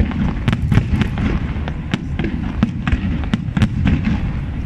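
Fireworks display: a dense run of sharp cracks and bangs, several a second, over a steady low rumble of bursting shells.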